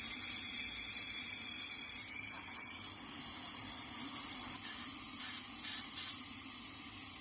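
Brazing torch flame hissing steadily as a refrigerator's copper tube joint is brazed, with a few faint crackles in the second half.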